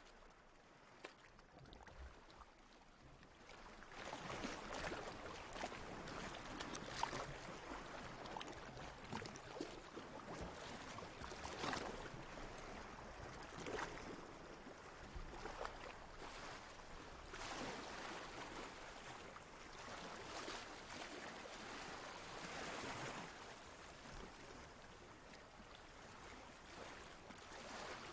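Water lapping and sloshing in gentle swells that rise and fall every couple of seconds. It is faint at first and grows louder about four seconds in.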